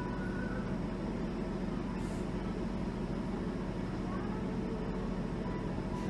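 Steady engine drone and road rumble of a motor coach heard from inside the passenger cabin, with a constant low hum.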